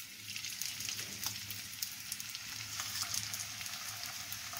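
Rolled crepes filled with farmer's cheese frying in a hot pan: a steady sizzle with many small crackling pops as the oil spits.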